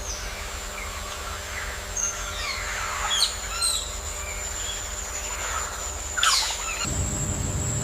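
Several birds chirping and calling in short, falling notes over a steady high-pitched tone; a low rumbling noise comes in near the end.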